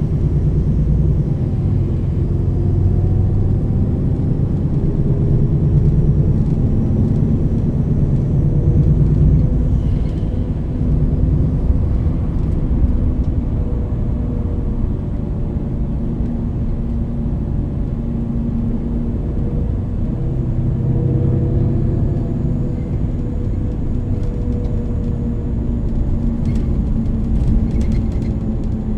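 Interior sound of a MAN NL 323 low-floor city bus on the move, a steady low engine rumble with a ZF EcoLife automatic gearbox. Faint whining tones rise and fall several times as the bus accelerates and shifts.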